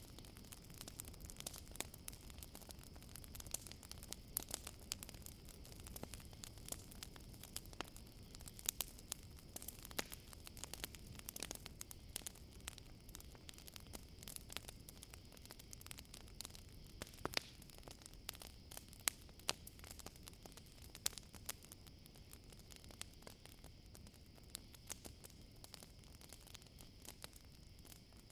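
Campfire crackling, with irregular sharp pops and snaps over a low hiss, and a steady high chorus of crickets underneath.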